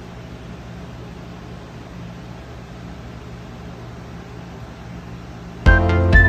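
Steady low hum with a faint hiss, like a running appliance or fan. Background music with clear notes starts abruptly near the end.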